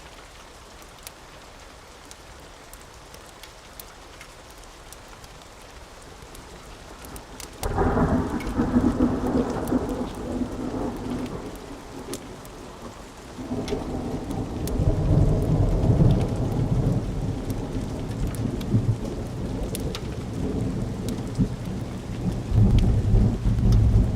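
Thunderstorm: steady rain with a sudden crack of thunder about eight seconds in that rolls on for several seconds, then a second long thunder rumble that builds from about fourteen seconds and swells again near the end.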